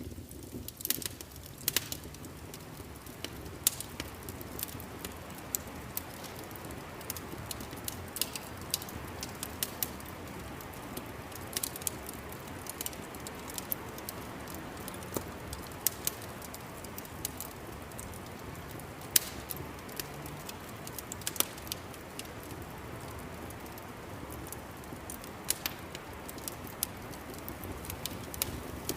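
Wood fire crackling in a fireplace: irregular sharp pops and snaps, a few of them loud, over a steady low rush of flame.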